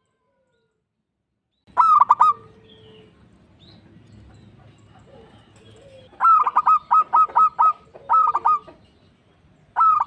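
Zebra dove (perkutut) cooing: short phrases of quick, clipped notes. After a silent start comes one phrase, then a longer run of about seven notes, then two shorter phrases near the end.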